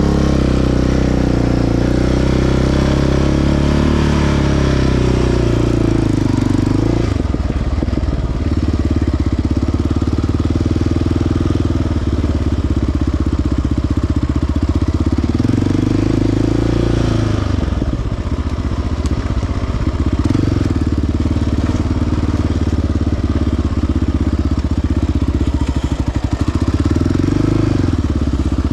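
Single-cylinder four-stroke quad (ATV) engine running under way on a trail, its pitch rising and falling as the throttle is opened and eased off, with dips about a quarter of the way in, past halfway and near the end.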